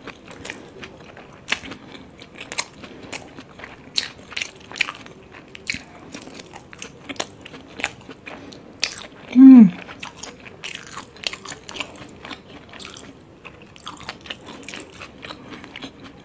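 Close-miked eating of veg momos dipped in chutney: biting and chewing, with many small mouth clicks throughout. About halfway through comes one short, loud vocal sound that falls in pitch.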